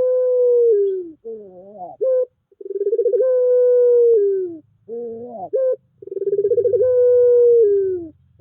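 Puter pelung dove cooing, three times over. Each coo opens with a quick rolling pulse, holds a long steady note that slides down in pitch at its end, and closes with a short rising warble.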